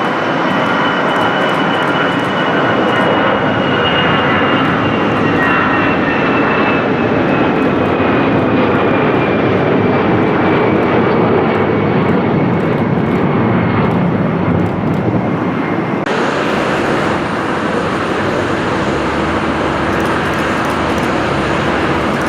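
Airliner engines running loud and steady as the aircraft passes close, with a thin whine that falls slowly in pitch over about fifteen seconds.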